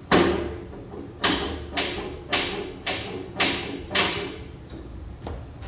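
A series of sharp knocks, about two a second, each dying away quickly: the first is the loudest, and a fainter one comes near the end.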